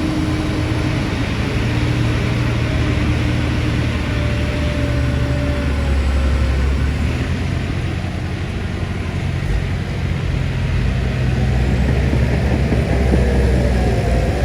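Heavy diesel engine of earthmoving machinery running steadily under load, its pitch shifting slightly, easing off a little about two-thirds of the way in and then building again near the end.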